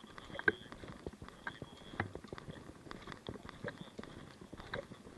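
A scatter of irregular short clicks and knocks over a faint steady high whine.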